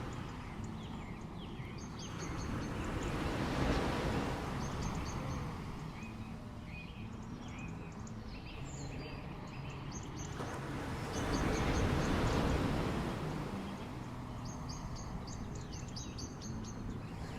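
Waves washing onto a beach, swelling and fading every several seconds, with birds chirping in quick runs of short high notes.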